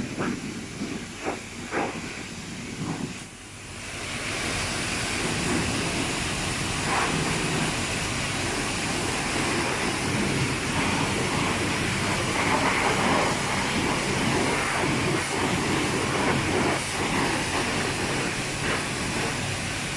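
A few knocks and thumps, then from about four seconds in the steady hiss of a car-wash pressure washer spraying the car.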